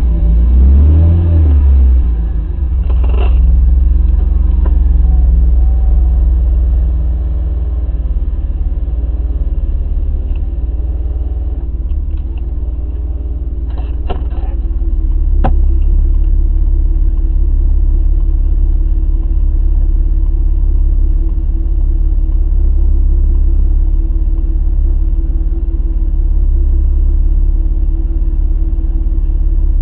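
BMW E30's M50B20 2.0-litre straight-six idling. In the first two seconds the revs ease down from a brief blip before it settles to a steady idle, with a couple of light clicks about halfway through.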